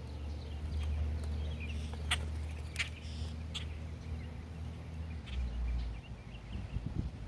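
Birds chirping in short, faint calls over a steady low rumble, with two sharp clicks about two and three seconds in.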